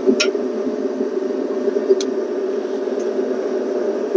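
Steady low mechanical hum of a running machine, with a couple of short sharp clicks, one near the start and one about two seconds in.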